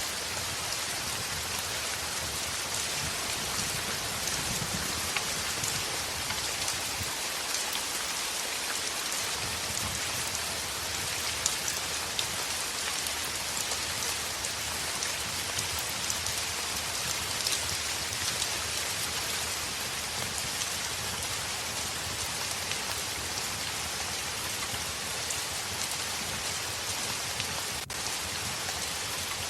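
Heavy rain falling on a window: a steady, even hiss of many drops, with scattered sharper ticks standing out here and there.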